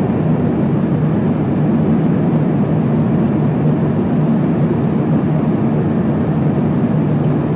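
Steady cabin noise of an Airbus A350-900 airliner in cruise flight: an even, low roar of airflow and engine drone with no breaks or changes.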